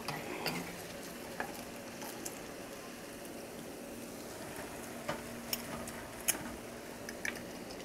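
Battered cardoon strips sizzling in hot vegetable oil in a frying pan, a steady hiss broken by a few sharp clicks.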